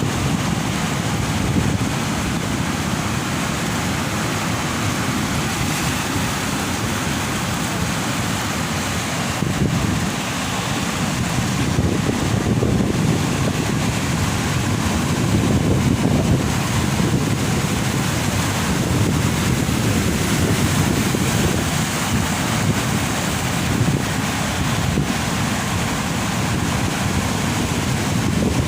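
Large ocean waves breaking and washing onto a beach, a deep rushing surf that swells and eases, with wind buffeting the microphone.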